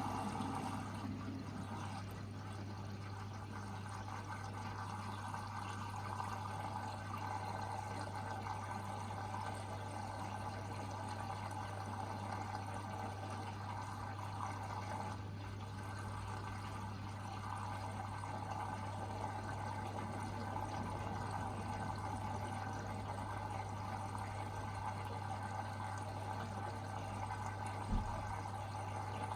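Hoover VHD 9163 ZI front-loading washing machine taking in water at the start of its final rinse: a steady rush of water into the drum over a steady low hum, with one short knock near the end.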